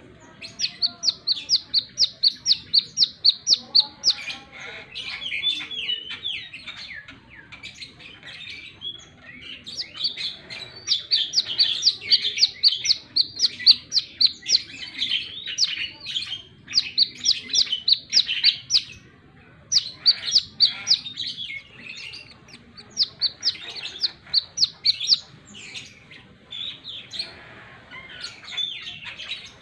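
Brown-throated sunbird (kolibri kelapa, wiceh) singing in full voice: runs of rapid, sharp, high chirps, about five a second, each run lasting a few seconds with short breaks between.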